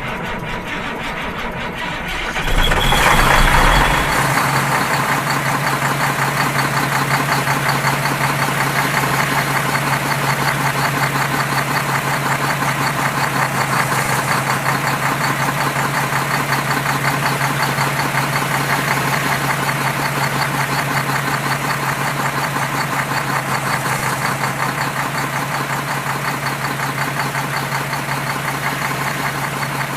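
A small motor starts up about two and a half seconds in, louder for a moment, then runs at a steady hum.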